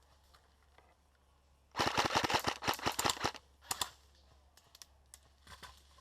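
Airsoft gun firing on full auto: a rapid burst of about a second and a half starting near two seconds in, a short second burst soon after, then a few scattered single shots.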